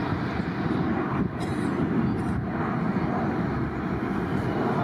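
Jet aircraft engines running: a steady, even rumble with no clear change in pitch.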